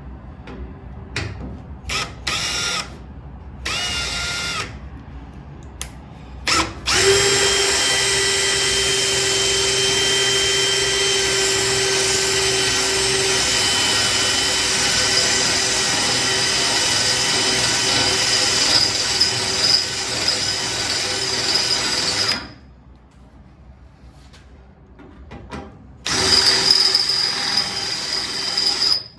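Power drill drilling out spot welds in a car's steel front wing panel. It opens with a few short trigger bursts, then runs steadily for about fifteen seconds, stops, and runs again for a few seconds near the end.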